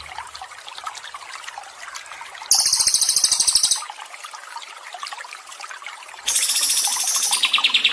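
Water trickling steadily, with recorded songbird song laid over it: two loud, rapid, high-pitched trills. The second trill is longer and drops lower in pitch partway through.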